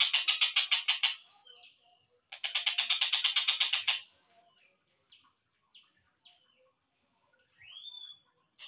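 Collared kingfisher (tengkek buto) calls, played back slowed down: rapid chattering runs of harsh notes at about eight a second, one ending about a second in and another from about 2.3 to 4 s. Then come a few short single notes, a rising slurred call near the end and the start of another run.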